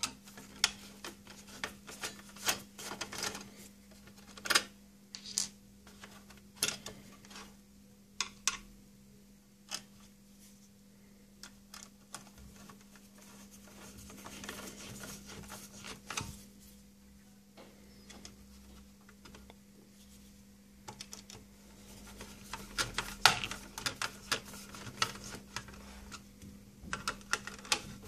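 Irregular clicks, taps and scrapes of a screwdriver and small metal parts as the fan guard is taken off a PC power supply's metal case, with a faint steady hum underneath.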